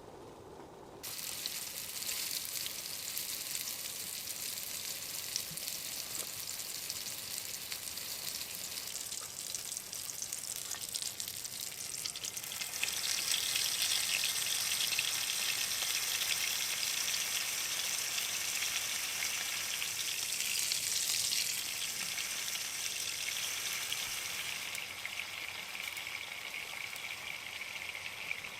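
Food sizzling as it fries in a hot pan: a steady, dense crackling hiss that grows louder about halfway through and eases again near the end.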